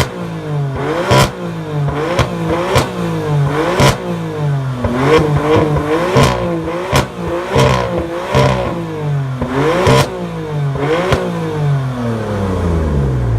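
BMW engine revved hard in repeated blips, its pitch rising and falling about once a second, with sharp cracks at many of the peaks. The revs fall away near the end.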